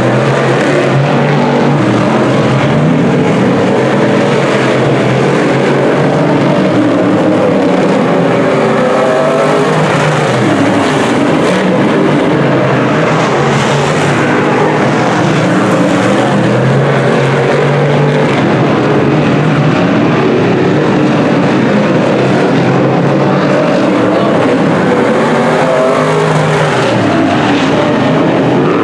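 A field of dirt-track Sportsman modified race cars running flat out around the oval, their V8 engines overlapping, each rising and falling in pitch as the cars pass.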